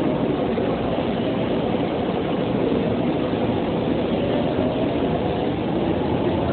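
A train running on the line: a steady rumble with a faint whine that slowly rises in pitch in the second half.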